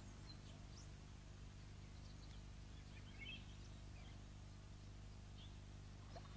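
Near silence: a few faint, scattered bird chirps over a low steady hum.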